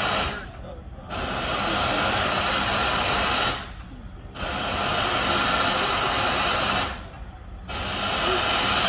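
Steam hissing from the Norfolk & Western J-class steam locomotive #611, in long bursts of about three seconds, each cut off by a short break of under a second.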